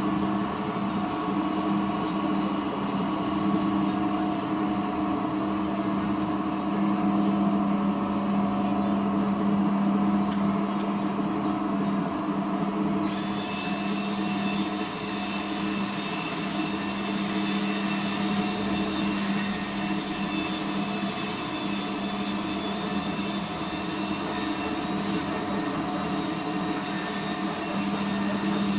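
A motor running steadily with a constant hum. About halfway through, a higher whine joins it.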